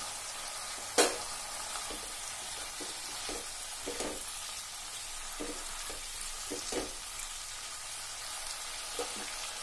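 Mixed vegetables frying in mustard oil in a nonstick kadai, stirred with a silicone spatula: a steady sizzle with soft, irregular strokes of the spatula through the pan. A single sharp knock about a second in is the loudest sound.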